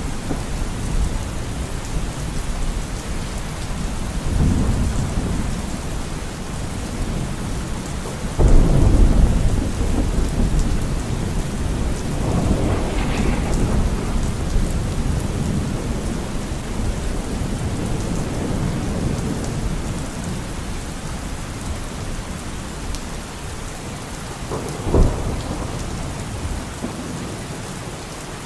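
Steady rain with rolling thunder. The loudest rumble sets in suddenly about eight seconds in, weaker swells come and go, and a short sharp crack sounds near the end.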